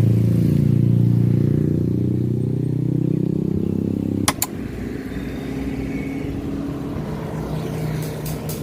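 Motor vehicle engine running on the road, its pitch shifting up and down, then a sharp click about four seconds in, after which the engine sound is quieter and steadier.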